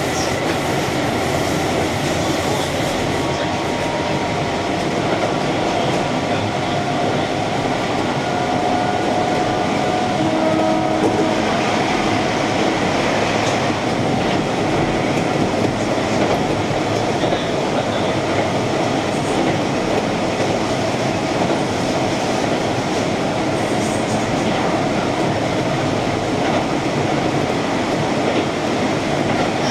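Keihan electric train running along the line: steady running noise of wheels on rails heard from on board, with a few faint held tones coming and going in the middle.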